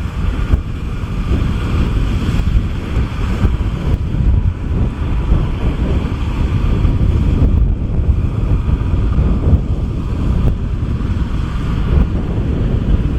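Kubota M6040SU tractor's diesel engine running steadily while mud-plowing, with wind buffeting the microphone.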